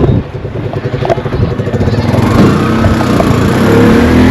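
A motor vehicle's engine running close by, growing louder from about halfway in, its pitch rising and then falling.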